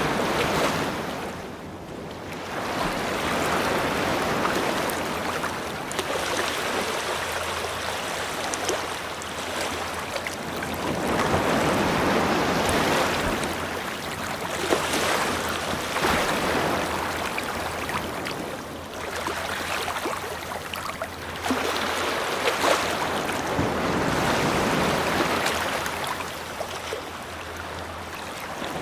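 Ocean waves breaking and washing up on a beach, the surf swelling and falling back every few seconds, with a low steady hum underneath.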